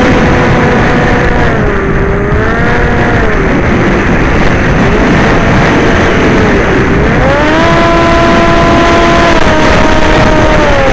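Motor and propeller of an FPV chase aircraft, recorded on board, with a wind rush underneath. The pitch shifts with the throttle: it drops about two seconds in, dips again past the middle, rises sharply soon after and falls back near the end.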